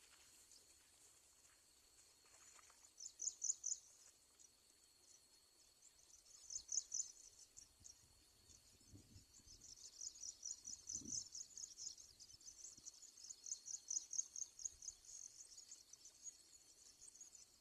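Insects calling in bursts of rapid, high-pitched pulsing chirps that come and go, then run almost continuously for several seconds, over a faint steady high hum.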